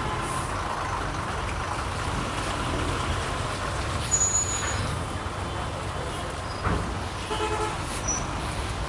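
Road traffic with heavy vehicles such as trucks and buses running steadily, and a short vehicle horn toot near the end.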